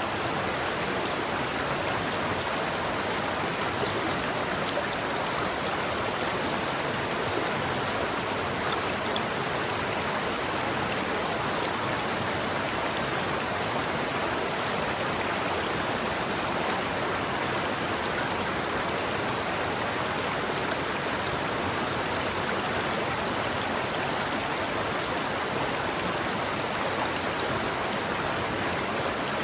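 River water flowing over rocks, a steady, even rushing with no changes.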